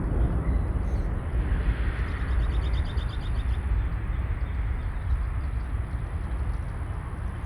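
Deep rumble of a Boeing 747 cargo jet's engines as it climbs away after takeoff, slowly fading.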